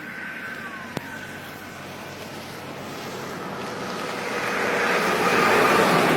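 A siren's wail sliding down in pitch over the first second, then road traffic noise growing steadily louder, as of a vehicle approaching.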